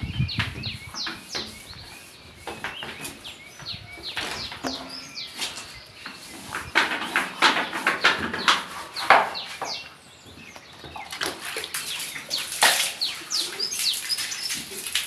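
Birds chirping in many short, quick calls, with domestic fowl among them.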